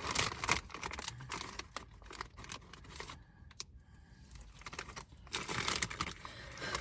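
Doritos chip bag crinkling and rustling as tortilla chips are taken out by hand, a crackle of sharp clicks that comes in a burst at the start and another about five and a half seconds in.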